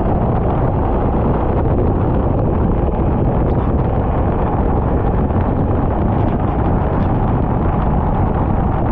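Racing kart engine running steadily at speed, partly buried under heavy wind buffeting on the microphone.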